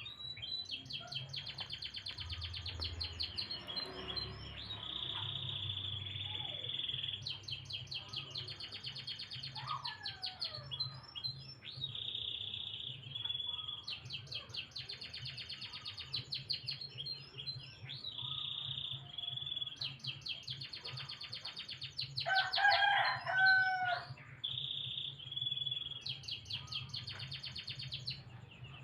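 Domestic canary singing: repeated phrases of rapid high trills, each ending in a held whistle, about every six seconds. About three-quarters of the way through, a louder, lower call cuts in for about two seconds.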